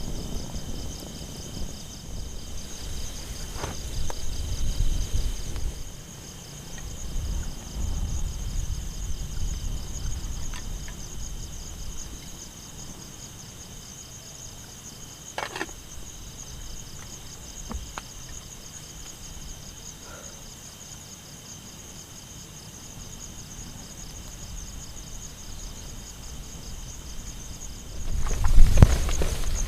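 A steady chorus of forest insects trilling at several high pitches, with low rumbling gusts over the first half and a few faint clicks. Near the end a loud rustling, handling noise breaks in.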